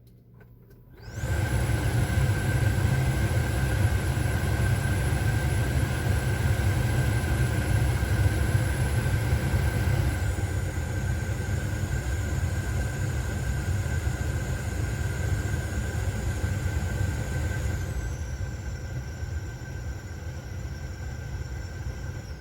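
The KIA Rio 3's cabin air-conditioning/blower fan comes on about a second in and runs with a rush of air and a steady high-pitched whistle: the fault the owner is showing. The highest whistle tones step down in pitch twice, and the sound grows a little quieter toward the end.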